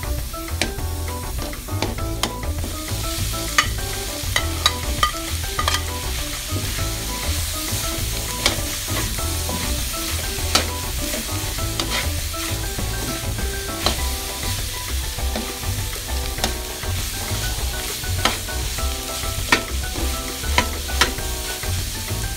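Food sizzling in a hot wok while a metal spatula stirs and scrapes it, with frequent sharp clicks as the spatula knocks the pan: shrimp paste, onions and chillies frying, then pieces of pork belly.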